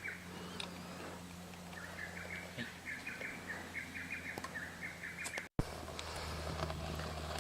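An animal's rapid chirping call, a run of short high notes about four a second, starting about two seconds in and cut off abruptly after five and a half seconds, over faint scattered crackles from a bonfire.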